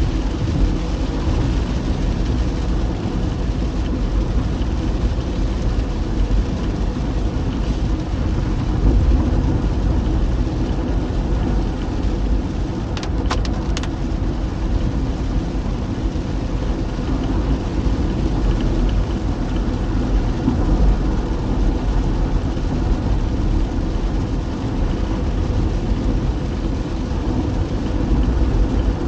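Car driving on a wet road in the rain: a steady low rumble of engine and tyres with a hiss of rain. A couple of short clicks about halfway through.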